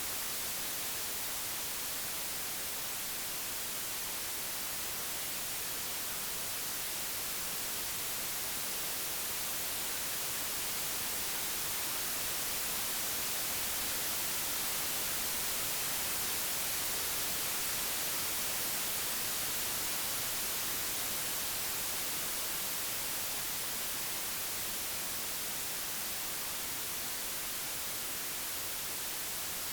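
Pure digitally generated white noise: a steady, even hiss with no tones or events, swelling slightly in loudness around the middle.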